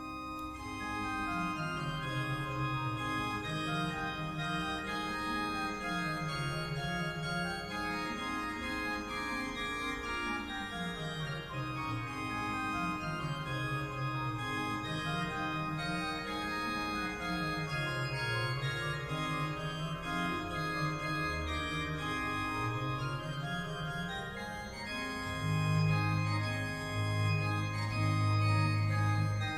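Organ music: sustained chords over a bass line that climbs and falls again and again, with a louder low note held near the end.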